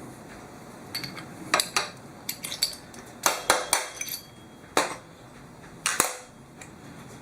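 Small steel parts clinking and knocking: an Aisin SL solenoid canister, its holding fixture and hand tools being handled. About a dozen sharp clinks come at irregular intervals, the loudest about six seconds in.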